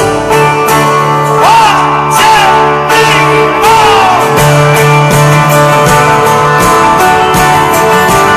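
Live band playing an instrumental passage with strummed acoustic guitar over a steady bass line. In the first few seconds a few voices whoop with swooping pitch over the music.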